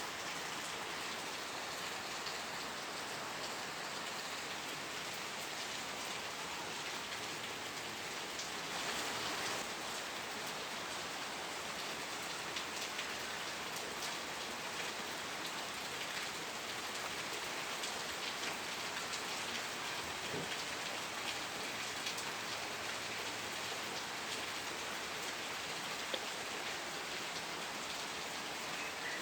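Steady rain falling on a surface, a dense even hiss with scattered drop ticks, swelling briefly about nine seconds in.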